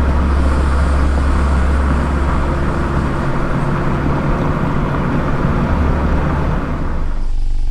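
Mazda ND Roadster (MX-5) driving, a steady low exhaust drone under road noise. About seven seconds in, the road noise drops away suddenly, leaving an even engine hum.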